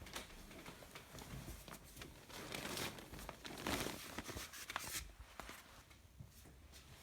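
Rustling and handling noises with scattered sharp clicks, busiest around the middle.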